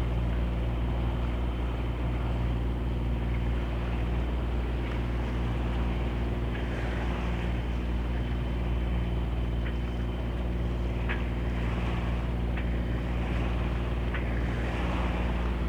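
A motoring sailing yacht's engine running steadily at cruising speed, a constant low hum with the rush of water and wind over it, and a few faint clicks in the second half.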